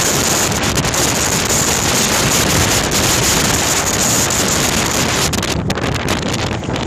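Heavy wind buffeting the microphone: a loud, steady rush of noise.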